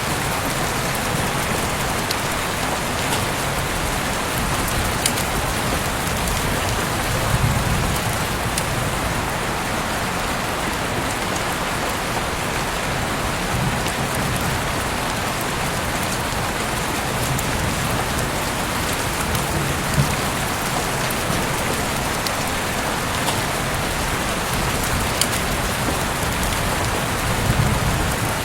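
Heavy rain falling steadily, a dense even hiss of drops on surfaces, with now and then a louder drop or splash.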